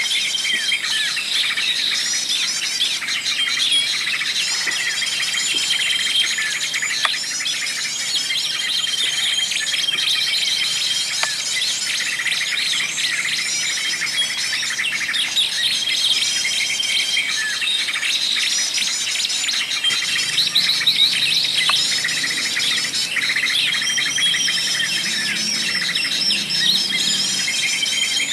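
Many small songbirds chirping and twittering densely together, with a short, steady whistled note repeating every few seconds.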